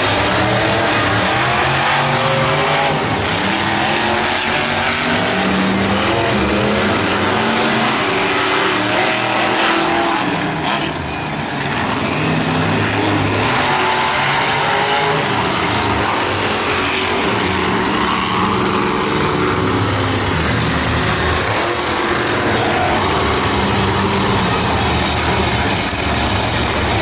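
Monster truck engines running loud and revving repeatedly, the pitch rising and falling over and over.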